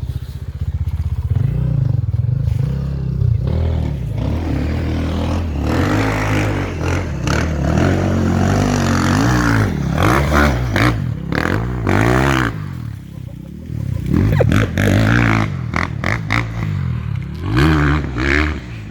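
Enduro motorcycle engine revving up and down over and over, easing off briefly about two-thirds of the way through.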